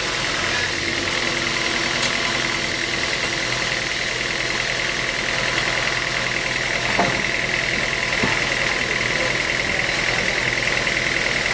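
Sawmill machinery running steadily, with a steady high whine that comes in about a second in.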